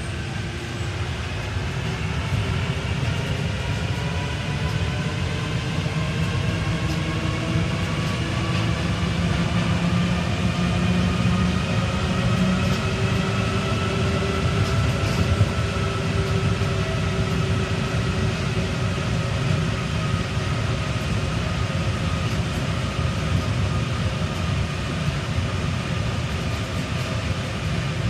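Rubber-tyred Paris Métro line 1 train running between stations. Its motor whine rises in pitch over the first dozen seconds as the train picks up speed, then holds roughly steady over a constant low rumble of the running gear.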